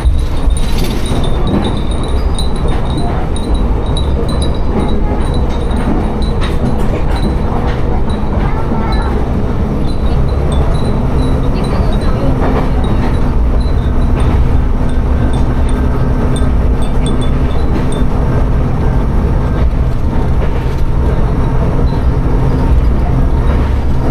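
Tsugaru Railway diesel railcar running between stations: a steady, loud drone of engine and wheels on rail.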